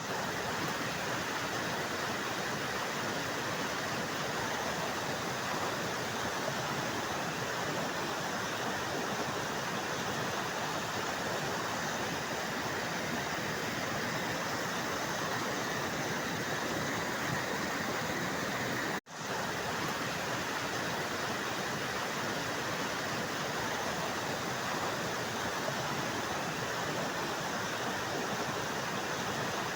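Small waterfall, water rushing steadily, with the sound cutting out for a split second about two-thirds of the way through.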